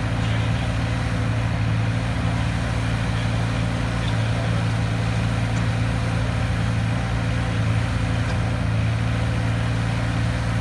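Wacker Neuson 803 mini excavator's engine running steadily at a constant speed.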